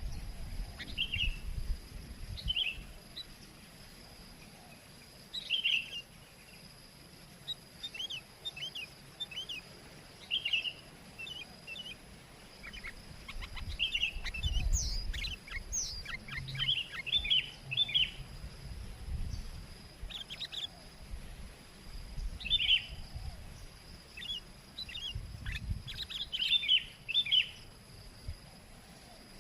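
Sooty-headed bulbul calling in short, quick bubbly phrases, repeated every second or two and busiest in the middle and near the end, with low rumbles now and then.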